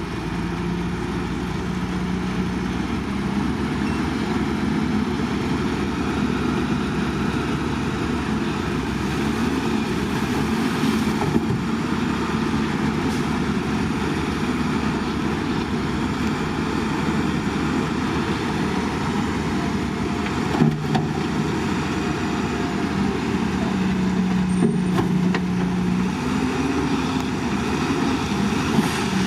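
Heavy diesel engines of earthmoving machinery running, their pitch rising and falling as the engines rev and settle. A brief sharp knock about 21 seconds in, with a few fainter clanks elsewhere.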